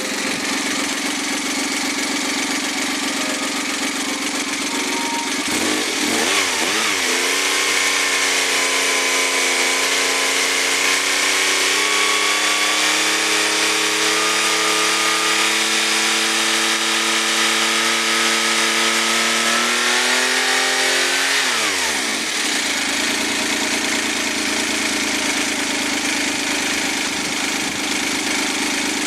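Overhauled Suzuki K6A 660 cc three-cylinder turbo engine on a test run: idling steadily, then raised about six seconds in and held at higher revs for some fifteen seconds, creeping slightly higher, before dropping back to idle.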